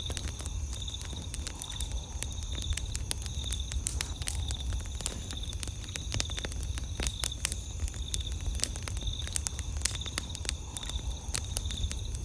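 Wood campfire crackling with frequent irregular sharp pops, over a steady low rumble. Night insects chirp steadily in the background in a high, pulsing trill.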